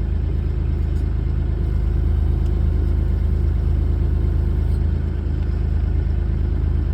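Bobcat E35 mini excavator's diesel engine running steadily at a low, even speed.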